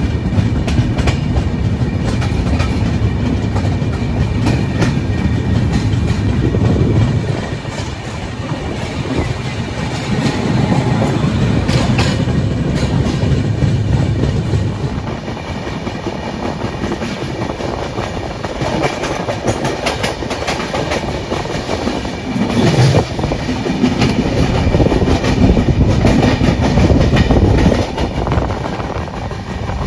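Indian Railways express train rolling past the platform on arrival, its coach wheels clattering over the rail joints in an irregular clickety-clack over a steady rumble.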